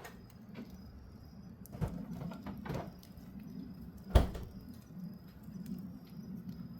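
Wood fire crackling with scattered sharp pops, and a loud single knock about four seconds in, over a steady low hum.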